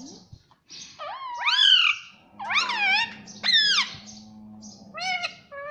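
Pet parrot giving loud, sweeping squawks, three long calls in a row, then a run of shorter, quicker notes near the end.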